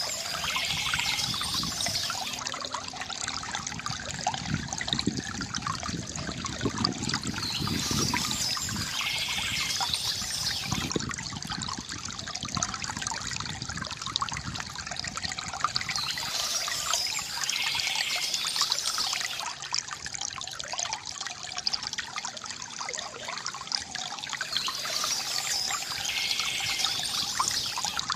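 Small stream trickling and babbling steadily, with a brief burst of birdsong recurring about every eight seconds.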